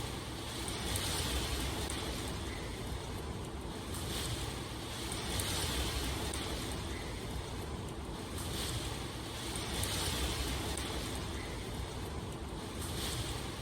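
Steady rain ambience: an even rushing hiss whose higher part swells and fades every few seconds.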